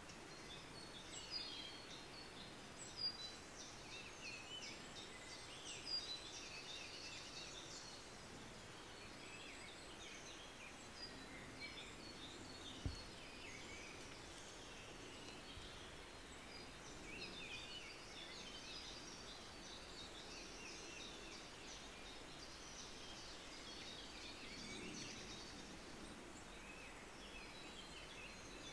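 Wild birds chirping and singing faintly, many short high calls and trills overlapping over a steady background hiss. A single short thump about halfway through.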